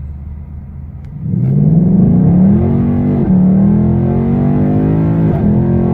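2019 Mustang GT's 5.0 V8 through a Pypes H-pipe resonator delete, running low and steady, then opening up hard about a second in with the pitch climbing. It holds at full load with two brief dips in pitch along the way.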